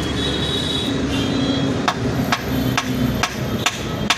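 Hammer blows struck at an even pace, about two a second, starting about two seconds in, over a steady background hum of traffic and workshop noise.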